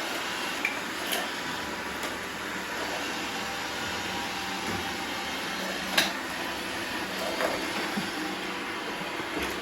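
Several robot vacuums (Roomba, Shark and Bissell) running at once, their motors and brushes making a steady hum. A sharp knock comes about six seconds in, and a smaller one about a second in.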